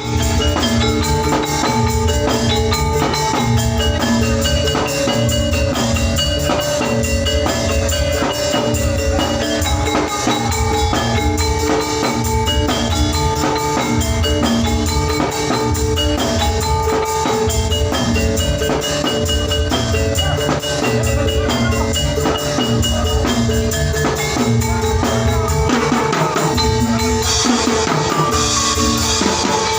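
Oklik music, the Javanese ensemble of tuned bamboo kentongan slit drums, played loud with drums keeping a steady, driving beat. It comes through a large sound system being tested.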